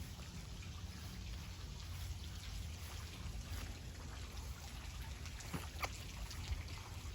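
Faint trickling and dripping of water from the rain-soaked garden, with a few sharp clicks about six seconds in.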